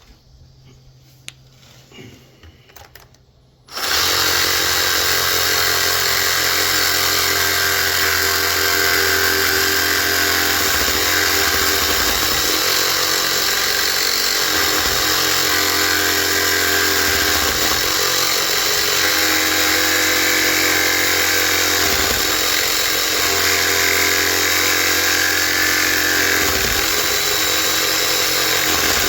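A handheld power tool starts about four seconds in and runs steadily and loudly, working on a large electric motor's housing to take its top off.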